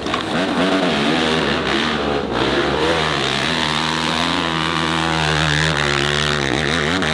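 Dirt bike engine revving hard under load on a hill climb. The pitch swings up and down for the first few seconds, then holds high and steady, and dips and rises again near the end.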